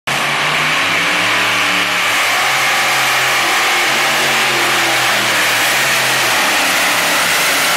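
Competition pulling tractor's engine running hard at high revs, loud and steady, its engine note wavering slightly.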